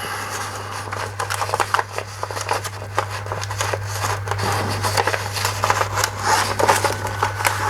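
Rexel LV250HS laminator running with a steady low hum while a sheet of dry paper is pushed at its rollers, rustling and crackling in the hands. The paper is not being drawn through, a sign that something in the feed is still not right.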